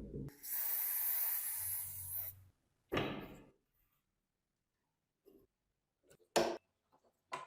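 A hiss lasting about two seconds, then a single knock and a few light clicks of metal parts being handled.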